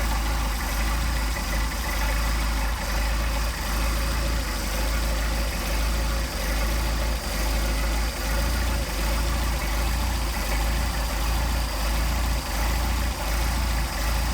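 Mercedes-Benz 190SL four-cylinder engine idling steadily at about 700 rpm on twin Solex carburetors, whose idle is being adjusted after synchronizing them.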